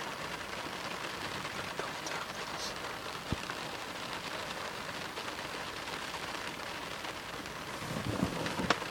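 Steady rain falling on a car's roof and sunroof, heard from inside the car, with one sharp tap about three seconds in.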